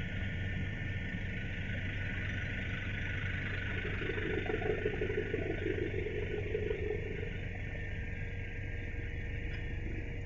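Helicopter in flight: steady engine and rotor drone, a little louder and rougher for a few seconds in the middle.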